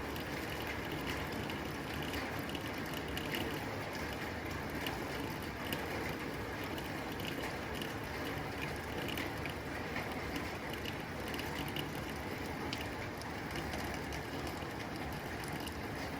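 Rain falling on a tin roof: a steady hiss of rain with a dense patter of quick taps as drops strike the metal.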